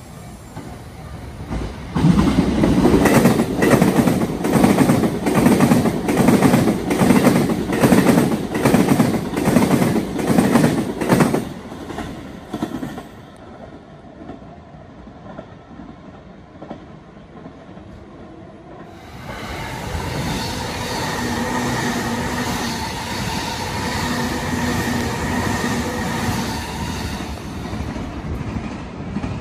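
Keikyu electric trains passing close by. The first passes loudly for about ten seconds with its wheels clacking rapidly over the rail joints. After a quieter lull, a second train passes more evenly with steady humming tones.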